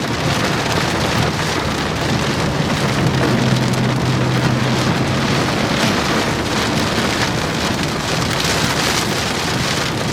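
Heavy rain hitting a vehicle's roof and windshield, heard from inside the cabin, a loud steady wash of noise over a low steady drone, during a downpour heavy enough to flood the highway.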